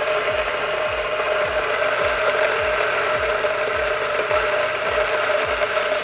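1st Line Sonny doserless espresso grinder running, grinding coffee beans straight through its chute into a portafilter: a steady mechanical whir with one clear steady tone.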